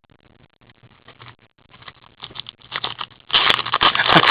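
Trading card pack wrappers crinkling and tearing as packs are opened. It starts as faint scattered crackles and grows into loud, dense crinkling about three seconds in.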